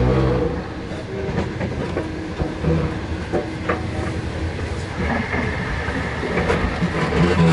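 Long-distance passenger train running, heard from inside a carriage: a steady low rumble of the wheels on the rails with scattered irregular knocks and clacks.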